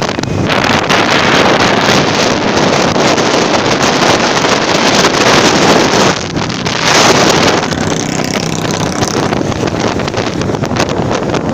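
Wind rushing over the microphone of a moving motorcycle, with the engine running underneath. The wind dips briefly about six seconds in, surges again just after, and then eases.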